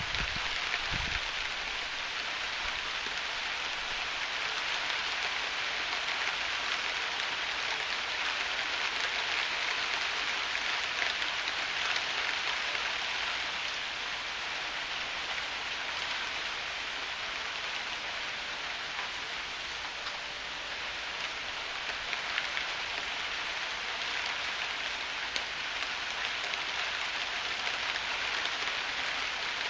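Heavy rain falling steadily, a dense even hiss. A low rumble dies away in the first second.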